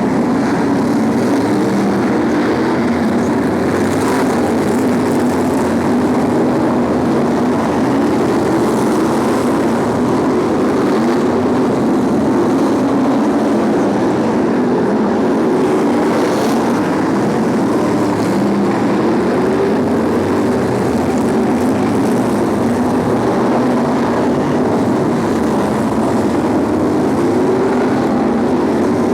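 A pack of BriSCA F1 stock cars racing, their V8 engines running hard together as a loud, continuous sound with many engine pitches rising and falling over one another.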